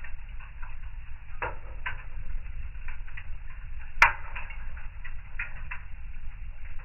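Wood fire crackling in a fireplace: irregular small pops and snaps over a low steady rumble, with one sharp, loud pop about four seconds in.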